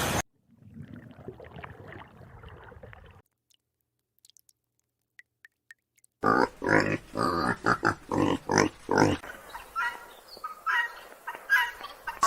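A rapid series of short animal calls in the second half, after a faint noisy stretch and a few seconds of near silence.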